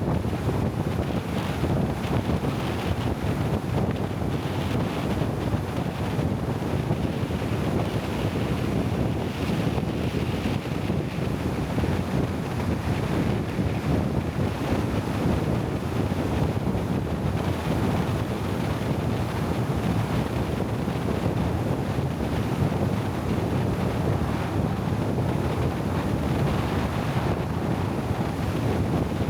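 Bamboo raft moving on a river: a steady rush of water and wind against the microphone, even throughout with no engine tone.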